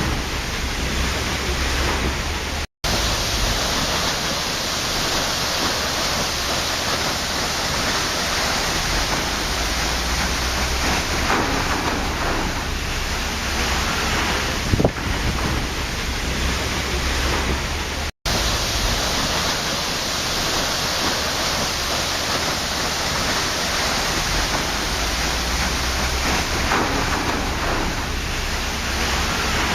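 Waterfall: a steady, even rush of falling water that cuts out for a split second twice.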